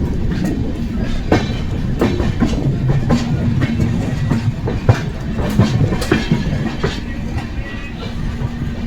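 Amrit Bharat Express train running along the track, with a steady low rumble and irregular clattering knocks of its wheels over rail joints. One sharp knock stands out about five seconds in.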